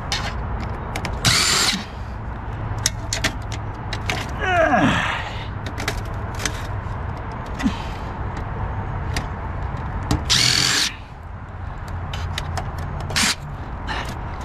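Cordless drill-driver running in two short bursts, driving screws out of a printer's steel frame, with clicks and clatter of handling in between and a brief squeak about four and a half seconds in.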